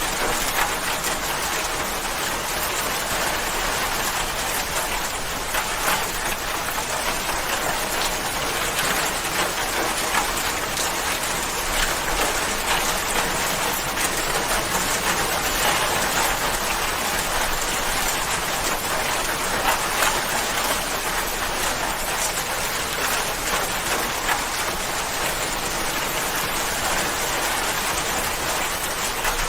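Steady rain falling on a surface, a dense even patter of drops with occasional slightly louder drops standing out.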